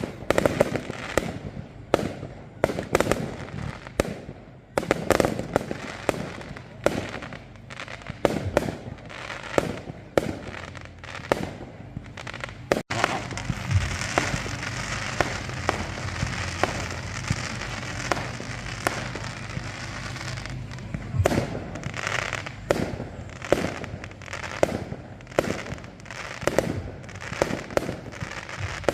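Fireworks display: a rapid run of sharp bangs from bursting shells, several a second. From about halfway through the bangs merge into a denser continuous crackle for several seconds before thinning out again.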